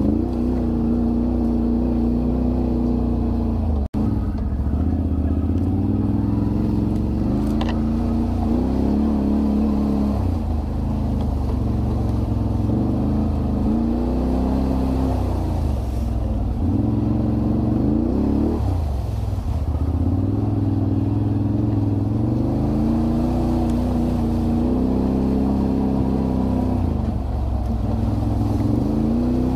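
Can-Am Renegade 1000 ATV's V-twin engine running under way, its pitch rising and falling again and again as the throttle is opened and eased off. The sound drops out for an instant about four seconds in.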